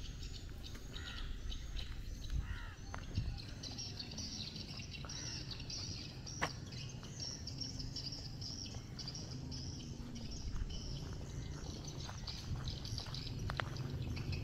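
Many small birds chirping in quick, repeated short calls over a steady low background rumble, with a single sharp click about six and a half seconds in.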